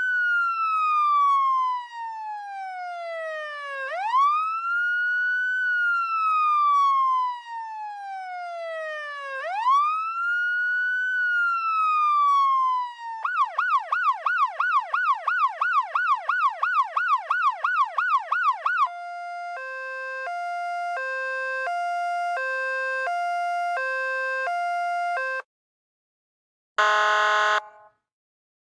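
Electronic police car siren running through its tones. First a slow wail, each rise quick and each fall slow, about every five and a half seconds. Then a fast yelp warble, then an alternating two-note hi-lo, which cuts off. After a short pause comes one brief, buzzy horn-like blast.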